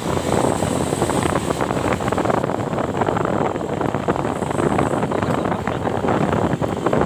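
Truck engine and road noise, a loud steady rumble with wind buffeting the microphone.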